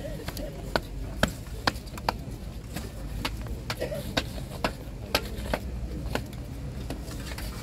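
A series of irregular sharp knocks and clicks, roughly two or three a second, over a steady low rumble.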